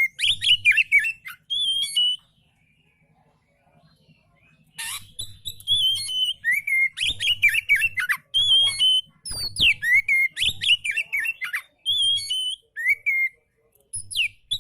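Oriental magpie-robin (kacer) singing: phrases of clear whistles and quick slurred, falling notes. The song breaks off for about two and a half seconds early on, then resumes and continues.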